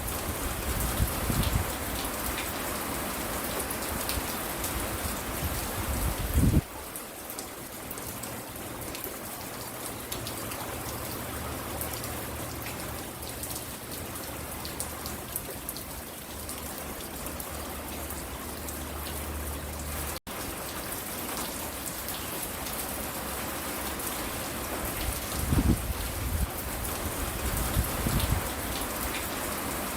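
Steady rain falling, an even hiss of drops on surfaces, with a few low thumps near the start, about six seconds in and near the end. The sound cuts out for an instant about twenty seconds in.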